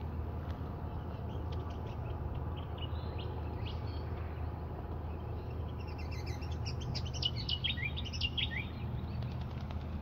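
Birds chirping and calling in quick runs of short, high, downward-sliding notes, busiest and loudest toward the latter half, over a steady low rumble.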